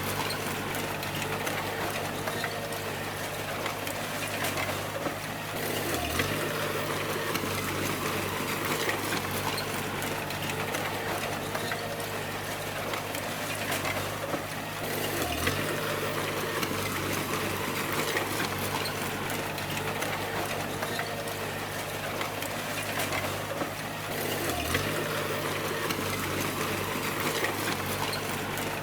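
Bulldozer diesel engine running steadily under load with mechanical clatter. The engine note dips briefly three times, about nine seconds apart.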